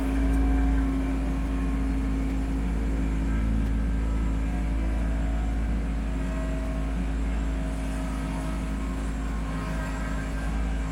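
Kubota B2650 tractor's three-cylinder diesel engine running steadily, swelling briefly in the first second.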